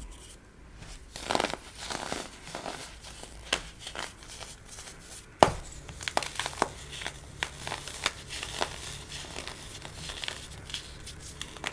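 White baking soda being crushed: an irregular run of crunches and crackles, with one sharp crack about five and a half seconds in.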